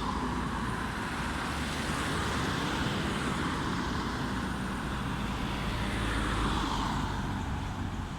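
Motor vehicles passing on the road, over a steady low road rumble, with two swells as vehicles go by, the second about six seconds in.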